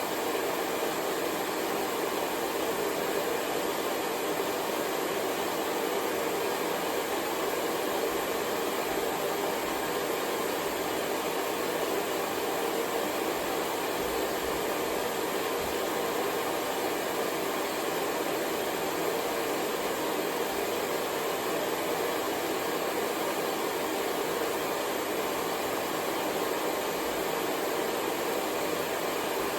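Hair dryer blowing continuously, a steady unchanging whoosh of fan and airflow with a faint hum.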